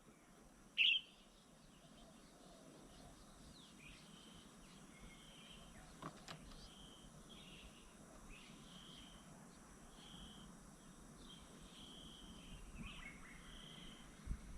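Small birds calling: one loud sharp chirp about a second in, then a steady series of short, high, evenly repeated notes about once a second over faint outdoor background noise.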